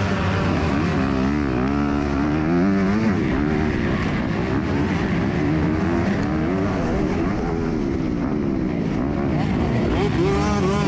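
Motocross bike engine revving hard, its pitch climbing and dropping again and again as the throttle is worked and the gears change, with no let-up.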